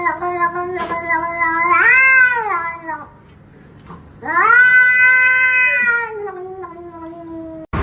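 Domestic cat yowling in two long drawn-out calls: the first rises and falls in pitch about two seconds in, and the second starts about four seconds in and holds steadier before trailing off.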